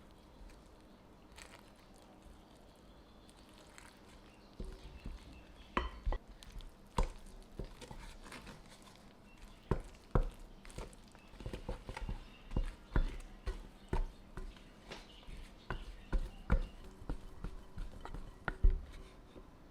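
Kitchen work sounds: irregular knocks and clicks of utensils and dishes being handled, frequent after the first few seconds.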